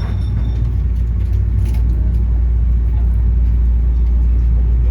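Train running, heard from inside the carriage: a steady low rumble that grows slightly louder about a second and a half in.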